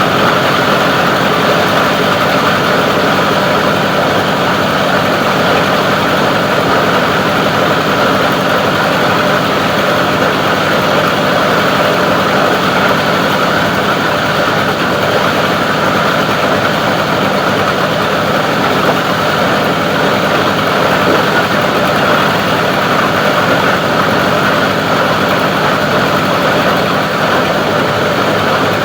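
Plastic recycling grinder machine running steadily with a continuous, even mechanical noise.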